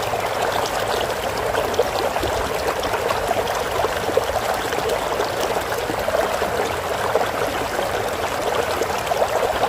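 Water flowing in a small stream, a steady babbling trickle with many small splashes.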